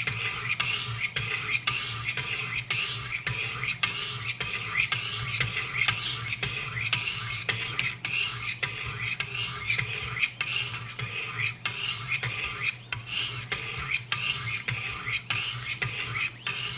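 Knife blade being stroked along the lowest-grit sharpening stones of a Wicked Edge guided sharpener: a steady run of rasping strokes, a few a second, as the bevel is ground and a burr raised on a Benchmade 725 Kodiak Skinner's edge.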